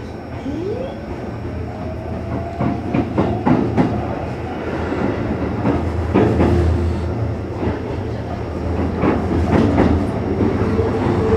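Sanyo Electric Railway 6000 series electric train running, heard from inside a passenger car: a steady low rumble with repeated clusters of clicks as the wheels cross rail joints. Near the start a brief whine rises in pitch and then holds steady for a couple of seconds.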